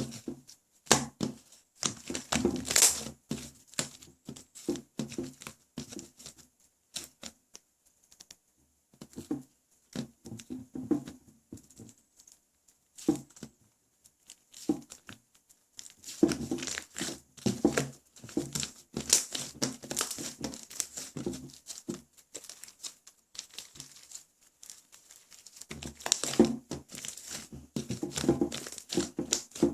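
Hands squeezing, stretching and pressing clay-mixed white slime: bursts of quick sticky crackling and clicking, with pauses between handfuls.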